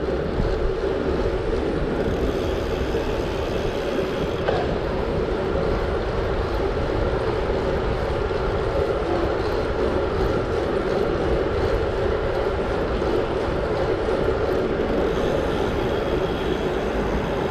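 Steady rush of wind and tyre noise from a gravel bike riding along, with a constant hum running through it.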